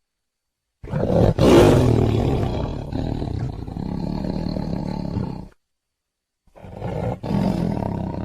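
Tiger roaring twice: a long roar of about four and a half seconds, loudest near its start, then a second roar beginning about six and a half seconds in.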